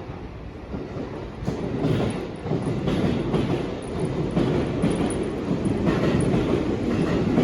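A train running along the track, its wheels clattering over rail joints about once a second, the rumble growing louder as it gathers speed or draws near.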